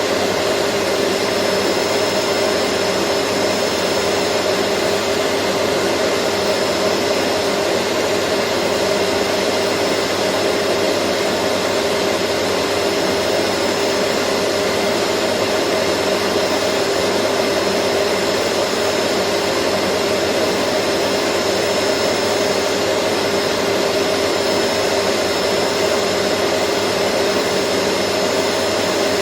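Vacuum cleaner running continuously, a steady even rush of motor and airflow with a constant hum and a thin high whine, unchanging throughout.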